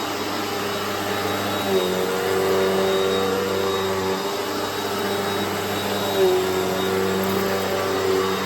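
Eureka AirSpeed NEU102 bagless vacuum cleaner running steadily: a motor hum over rushing air, its pitch dipping briefly twice, about two seconds in and about six seconds in.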